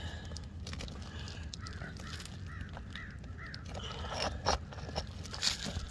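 A bird calling about five times in quick succession. Scattered clicks and knocks, the loudest near the end.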